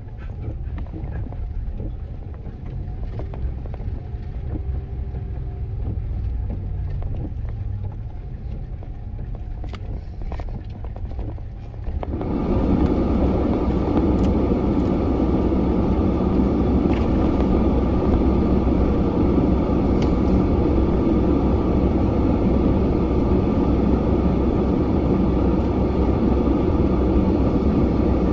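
Plow truck's engine running low and steady, heard from inside the cab. About twelve seconds in, a loud, even rushing noise switches on suddenly and holds steady over the rumble.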